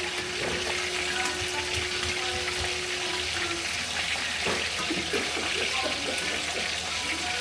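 Water running steadily with a constant hiss. A low steady hum sounds alongside it and stops about three seconds in.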